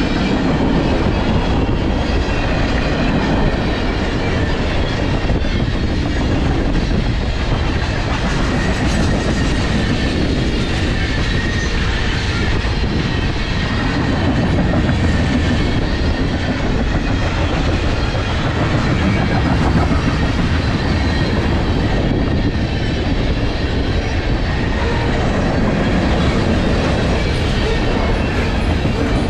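Railcars of a long freight train rolling steadily past, wheels clicking over the rail joints.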